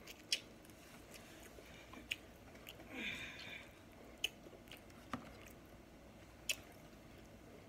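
Close chewing and mouth sounds of someone eating snow crab, with faint clicks of crab shell being picked apart by hand. There are a few sharp clicks and a short hiss about three seconds in.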